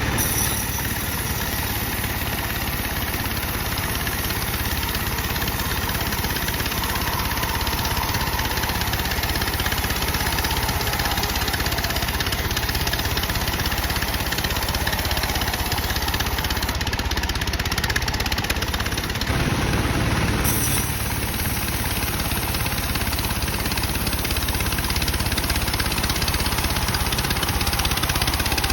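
Bandsaw mill running steadily while sawing dry teak, a continuous mechanical drone of the saw and its drive.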